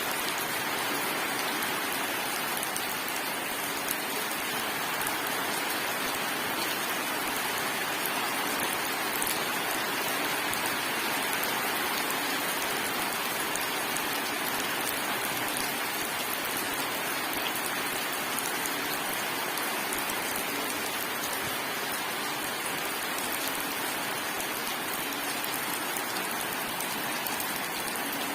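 Steady rain falling on surfaces, an even hiss with scattered drops ticking through it.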